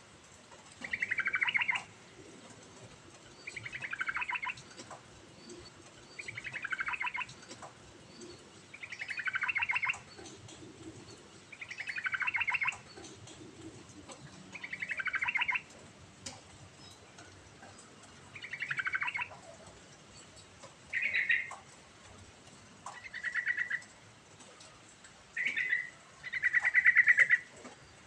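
Yellow-vented bulbul (trucukan) singing: a run of bubbly, gurgling phrases about a second long, repeated roughly every three seconds and dropping in pitch toward their ends, with a few shorter phrases near the end.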